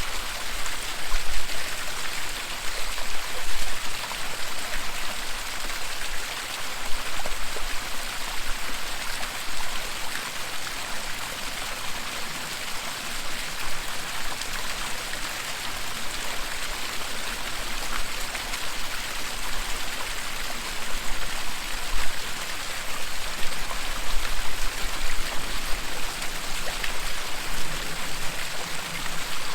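Waterfall: a steady rush and hiss of falling water, with a faint low rumble that comes and goes.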